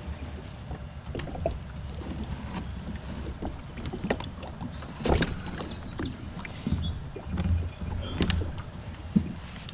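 Wind rumbling on the microphone, with scattered knocks from a small boat on the water. The loudest knocks come about four, five and eight seconds in.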